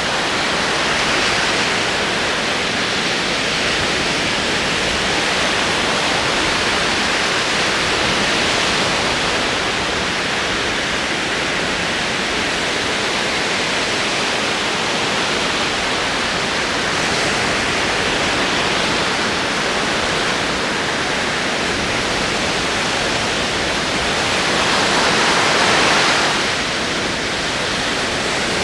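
Ocean surf: rolling waves washing in as a steady rush that swells every several seconds, with the loudest wave near the end before it eases back.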